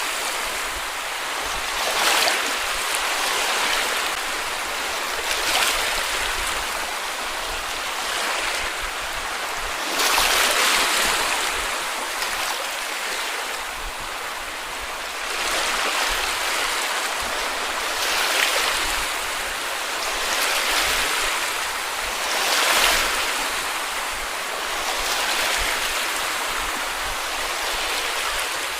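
Small waves washing onto a beach, a steady hiss of surf that swells as each wave breaks, every two to five seconds.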